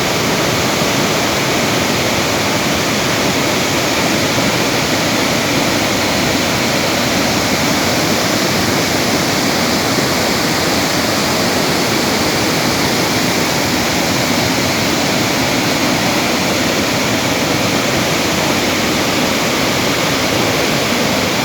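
Floodwater of a swollen river rushing by: a loud, steady wash of noise that does not let up.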